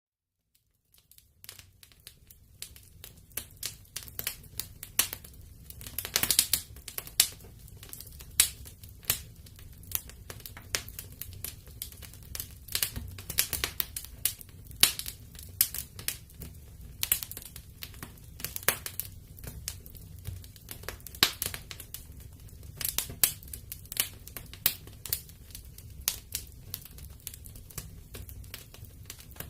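Wood fire crackling in a fireplace: irregular sharp pops and snaps of varying loudness over a low steady rumble of the flames. The sound cuts out for about a second at the start, then fades back in.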